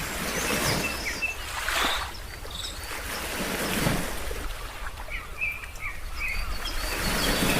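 Ocean waves washing in, in swells every second or few, with short bird chirps over them. The chirps cluster about two-thirds of the way through.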